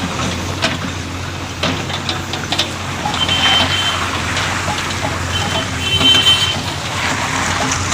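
Road-repair machinery engine running steadily, with scattered clatter and knocks. Two short high beeps sound about three and six seconds in.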